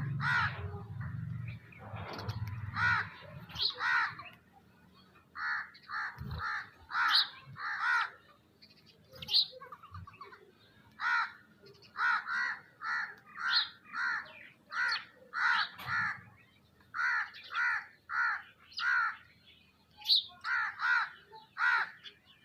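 Crows cawing over and over, short harsh calls coming in runs of two to four, with a few brief higher chirps from other birds among them.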